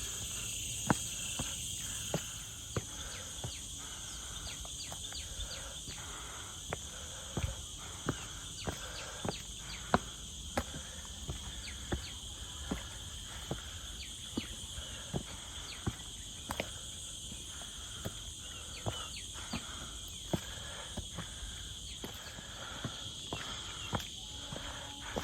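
Footsteps of someone walking a trail, a sharp step about every half second to second, over a steady high drone of insects.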